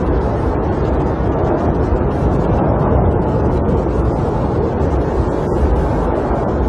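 Snowstorm wind blowing against a camper, heard from inside as a loud, steady, low rush.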